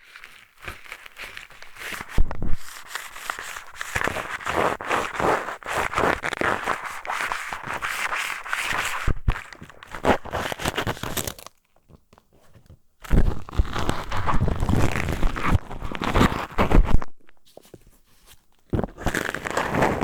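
ASMR ear cleaning with a pair of eyeglasses: the glasses scraping and rubbing in a microphone's ear, close up, as a dense run of scratchy, crackling strokes. The strokes stop for about a second and a half just past halfway, and go softer for a while near the end.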